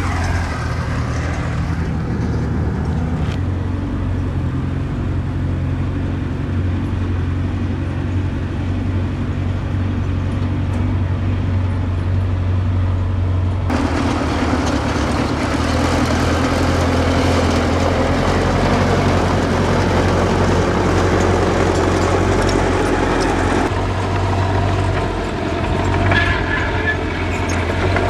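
Diesel engine of earthmoving machinery running steadily with a low drone. About halfway through it turns suddenly louder and rougher with more clatter, then changes again a few seconds before the end.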